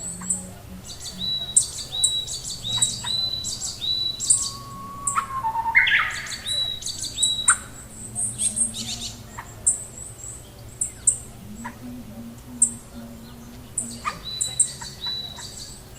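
Several birds chirping and calling: quick, high notes throughout, a run of repeated short notes with a downward flick in the first few seconds, and a louder, more complex call about six seconds in.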